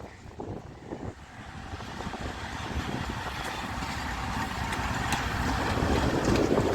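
Freight train approaching along the line. Its rumble grows steadily louder.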